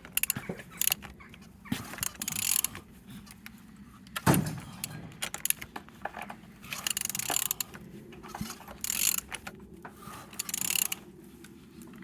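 Z16XEP 1.6-litre four-cylinder petrol engine being turned over by hand: irregular bursts of mechanical clatter and clicks as the crankshaft is rotated. The engine turns freely, with compression on all cylinders.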